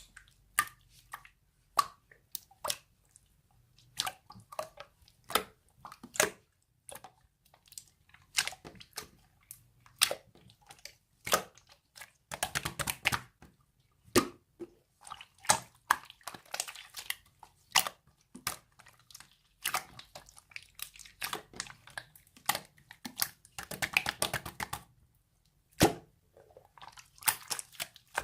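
Marbled slime being pressed and stretched by hand, giving a series of sharp separate clicks and pops from trapped air, which thicken into rapid crackling runs about halfway through and again near the end.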